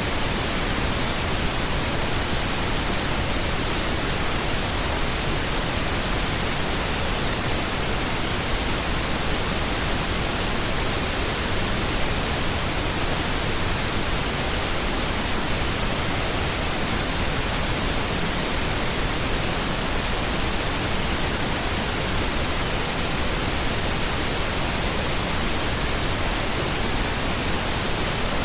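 Steady, unchanging pink noise: an even hiss spread across all pitches with more weight in the lows than white noise, like a distant ocean.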